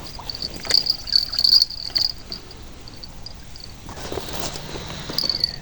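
Crickets chirping: a steady, pulsing high trill that swells in the first two seconds and again near the end, with a few soft clicks and knocks mixed in.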